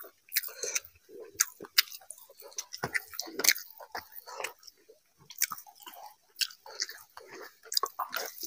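Close-miked chewing of rice and fish curry: irregular wet mouth clicks and smacks, with the squelch of fingers mixing rice and gravy on a steel tray.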